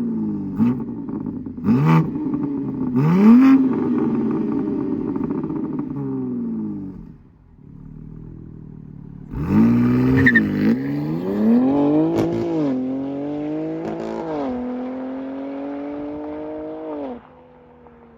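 BMW G87 M2 Competition's twin-turbo inline-six running through a valved aftermarket exhaust. It revs up and down with a few sharp exhaust cracks, drops back, then pulls hard through several upshifts, the pitch climbing and dropping at each shift before it lifts off.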